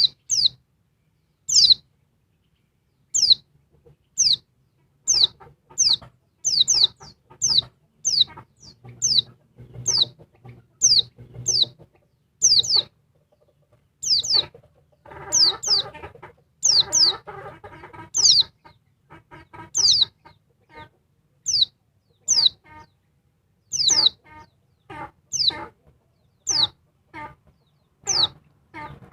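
Female white-eye (pleci) calling: sharp, high notes that drop quickly in pitch, repeated one or two times a second, with lower chattering between them.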